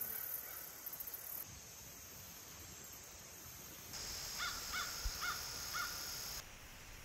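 A bird calls four times in quick succession, harsh caw-like notes about half a second apart. Under the calls a steady high buzz, like insects, starts about four seconds in and stops abruptly shortly after the last call. Before that there is only faint outdoor background noise.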